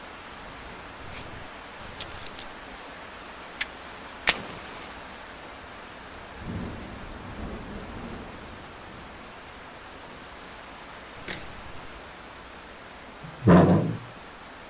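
Steady heavy rain, with a low thunder rumble about halfway through and a louder low crash near the end. A few sharp single clicks stand out over the rain.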